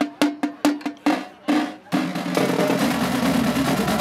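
Marching drumline playing: evenly spaced drum strokes at about four or five a second, then two longer accented hits, then a sustained drum roll from about halfway through.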